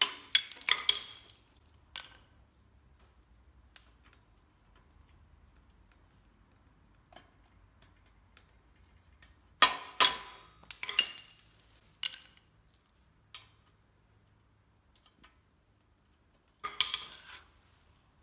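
Metal bike parts and tools clinking and being set down: sharp clinks with a short metallic ring. They come in a few clusters, at the start, about ten seconds in and near the end, with quiet in between.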